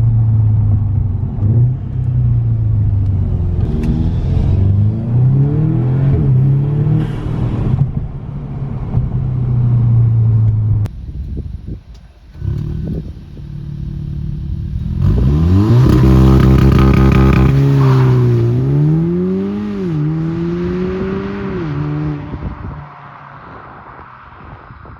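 Audi S3's turbocharged four-cylinder engine with a muffler delete and aftermarket turbo inlet, driving: a steady drone, then a hard rev about 15 seconds in that climbs sharply in pitch, followed by falling and rising sweeps as it shifts and lets off, easing off near the end.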